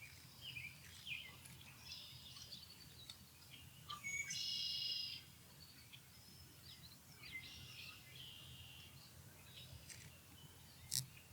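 Ospreys calling: a series of short, high chirps and one louder, longer call of about a second, about four seconds in. A sharp click near the end.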